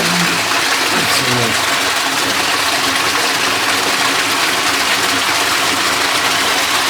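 Loud, steady rush of floodwater pouring and splashing out of a water mine, like a small waterfall.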